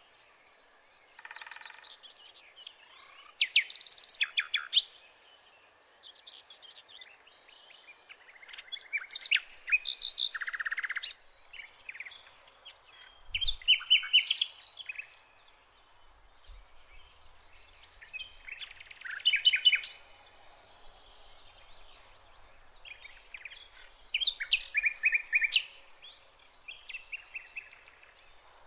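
Birds singing and chirping: phrases of quick, high notes come every few seconds, with fainter chirps in between.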